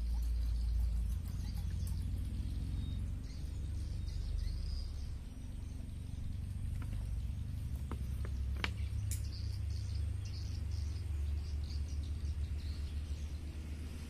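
Birds chirping in short calls over a steady low rumble, with a few sharp clicks about seven to nine seconds in.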